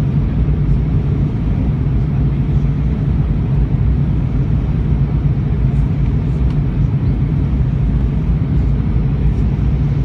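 Steady cabin noise inside an Airbus A319 airliner in flight: an even rumble of engines and airflow, strongest in the low range, with no changes.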